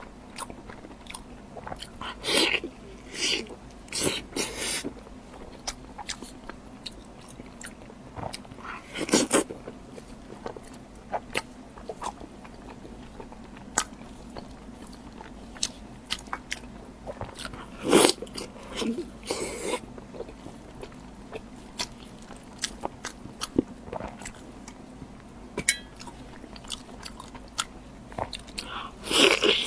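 Close-miked eating of meat: steady biting and chewing with many small wet mouth clicks, broken by a few louder bites spread through.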